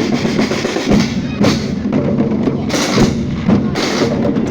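Drum band playing a percussion beat, with sharp drum strikes at irregular spacing over a dense, steady background.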